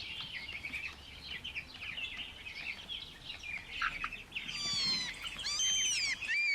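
Chicks peeping: many quick, overlapping high chirps, joined from about four and a half seconds in by louder, longer peeps that fall in pitch.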